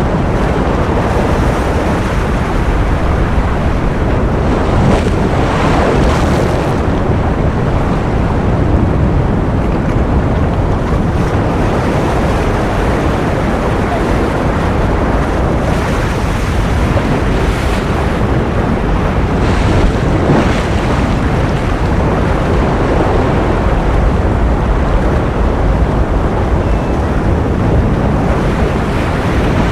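Ocean surf: a steady, dense rush of waves with soft swells every few seconds.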